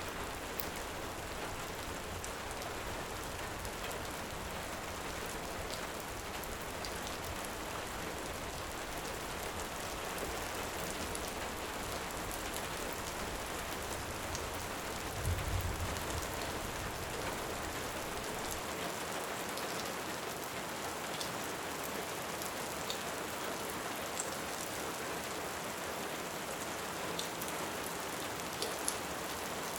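Steady rain, with scattered small crackles and pops from a wood fire on top of it. A short low rumble swells up about halfway through.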